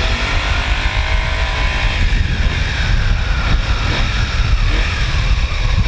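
Motorcycle on the move: a steady rumble of wind buffeting the microphone over engine and road noise, with a faint rising engine tone in the first second.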